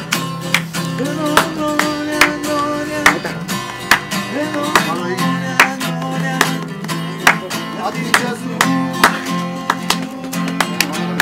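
Acoustic guitar strummed in a steady rhythm, with chords played without singing.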